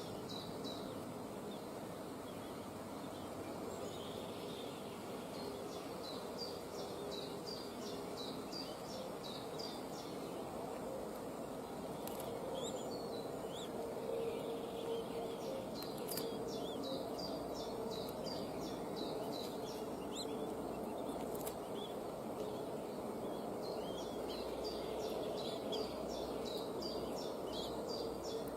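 A bird calling in several runs of quick, high, short chirps that fall in pitch, over a steady background hiss and faint hum.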